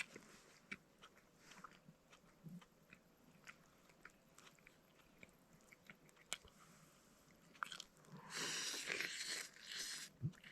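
A person eating: soft chewing with small scattered clicks, then about two seconds of louder crunching near the end.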